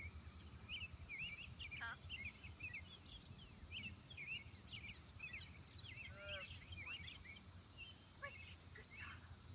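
Faint outdoor ambience: several songbirds chirping continuously in quick short notes, over a low steady rumble.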